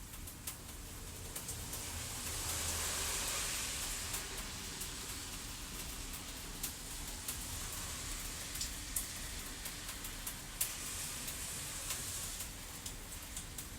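Thunderstorm and fireplace ambience: steady rain that swells for a couple of seconds near the start and then eases, with a crackling fire's sharp pops scattered throughout.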